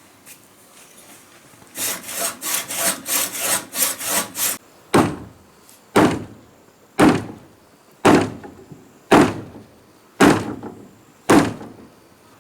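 Hand tools working wood: first a run of fast scraping strokes, about four or five a second, for nearly three seconds. Then seven heavy blows on wood, about a second apart, each ringing briefly.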